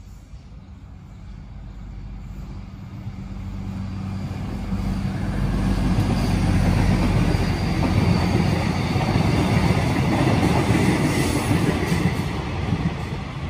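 A KRL Commuterline electric commuter train passing through a station. It grows steadily louder over about six seconds, stays loud for several seconds, then fades near the end.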